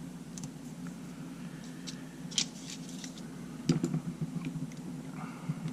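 Small clicks and taps of tools and camera parts being handled, with a sharper click about two and a half seconds in and a cluster of taps near four seconds, over a steady low hum.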